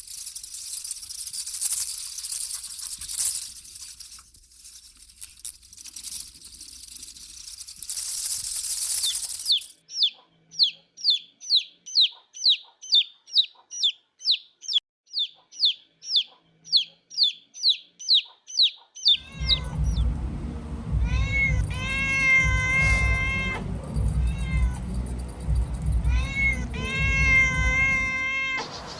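A hissing noise, then a long run of short, high, falling chirps about two a second, then a kitten meowing again and again over a low rumble for the last ten seconds or so.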